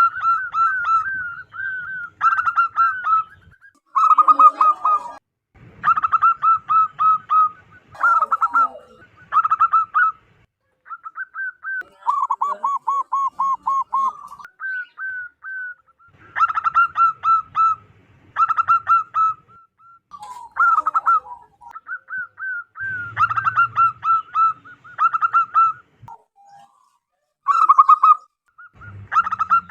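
Zebra dove (perkutut) cooing loudly, phrase after phrase of rapid staccato notes with short pauses between.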